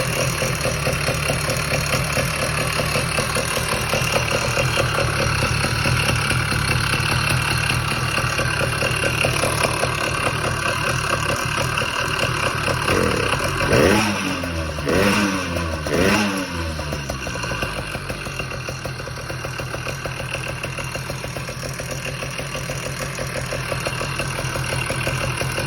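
Two-stroke motorized-bicycle engine running through a welded MZ65-clone expansion-chamber pipe. It idles steadily, with three quick throttle blips about halfway through. It runs well but is not yet tuned.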